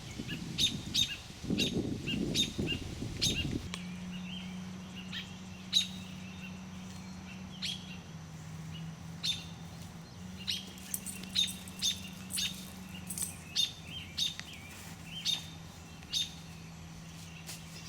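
A small bird gives sharp, short chirps over and over, about one or two a second: the alarm calls of a parent bird at a snake raiding its nest. A low rumble in the first few seconds gives way to a steady low hum.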